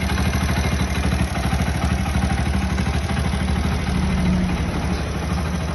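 Hero Splendor's single-cylinder four-stroke engine running steadily at idle, freshly rebuilt, with an even patter of firing pulses and some mechanical clatter.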